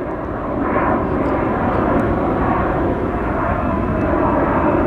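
Jet engines of an Embraer 175 regional jet at takeoff power on its departure roll: a steady jet noise that grows gradually louder.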